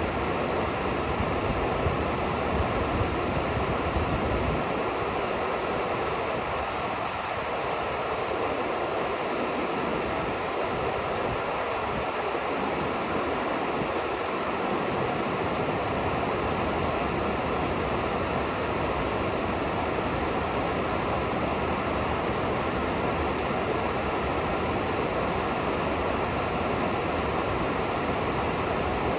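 Steady rushing of river water, an even hiss with no let-up. A low rumble under it in the first few seconds drops away about four and a half seconds in.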